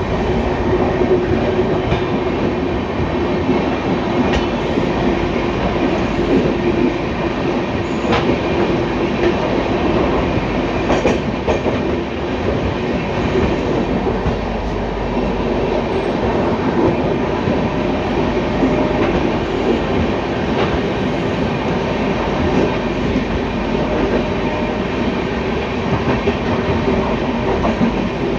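Two passenger trains running side by side on adjacent tracks, heard from the open door of a moving coach: steady rail running noise with a few clicks of wheels over rail joints.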